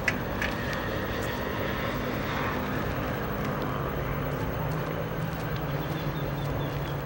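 Freight train of container wagons rolling away along the track: a steady rumble of wheels on rail with a low hum and a few sharp clacks.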